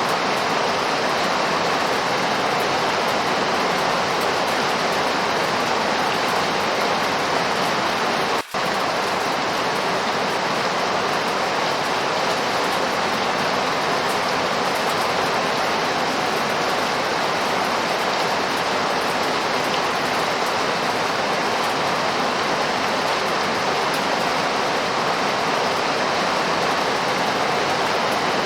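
Steady heavy rainfall, an even hiss, broken by a momentary gap about eight and a half seconds in.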